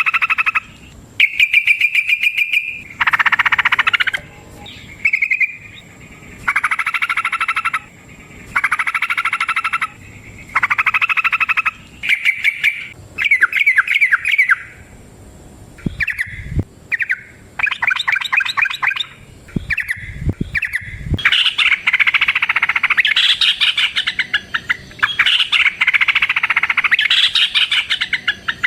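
Yellow-vented bulbul (trucukan) singing loud, bubbling phrases of about a second each with short pauses between. About two-thirds of the way in, the song turns into continuous, dense chattering. A few low thumps come just before that.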